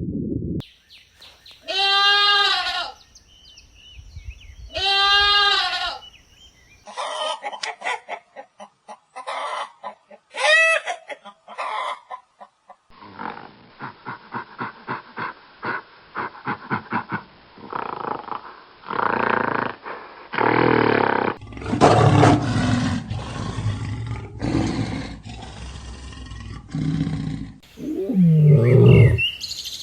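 A string of different animal calls edited one after another: two long bleat-like calls with a wavering pitch, then several shorter calls, then a long run of rough, pulsing low calls.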